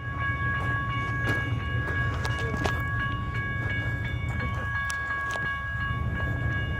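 A weed-control train rolling past on the rails: a steady low rumble with a sharp click now and then from the wheels. A steady high-pitched tone of several pitches runs through it.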